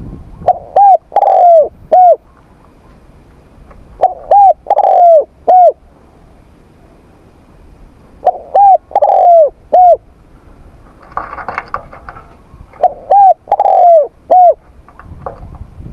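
Spotted dove cooing: four phrases about four seconds apart, each of about four notes, the third note longer and falling in pitch.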